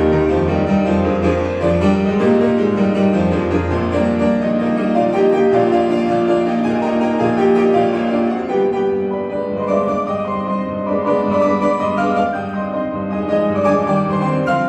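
Solo piano playing a classical piece: a dense passage over held bass notes that thins into lighter, higher figures about halfway through.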